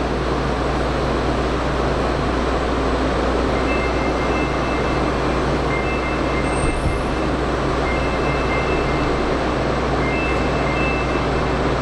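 N700S Shinkansen train moving slowly away from the platform: a steady even rumble and hum. From about three and a half seconds in, a two-note electronic beep sounds for about a second at a time, roughly every two seconds.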